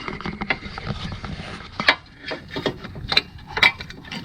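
Irregular clicks and knocks of the electrical box being handled and worked into position on its mount, with a sharper knock about two seconds in.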